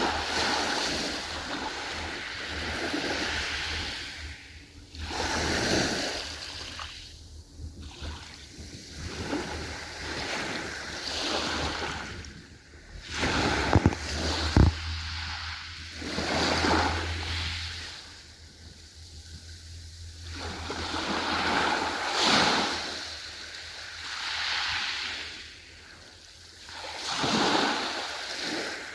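Ocean waves surging in and washing back, the surf swelling and fading every few seconds, over a low steady rumble that stops about two thirds of the way through. Two sharp clicks come about halfway through.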